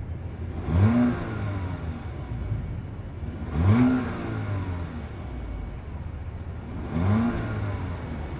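2018 Audi A5 Coupe's 2.0-litre turbocharged four-cylinder engine idling and blipped three times through the exhaust. Each rev is a quick rise in pitch that falls back to idle within about half a second.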